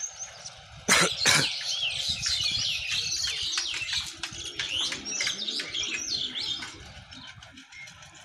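Birds chirping and twittering in quick, overlapping calls for about six seconds, fading out near the end. Two sharp knocks about a second in are the loudest sounds.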